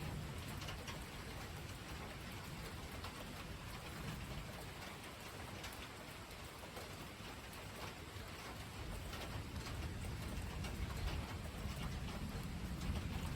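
Steady rain falling, with many small drops and drips, and a low rumble of distant thunder building in the last few seconds.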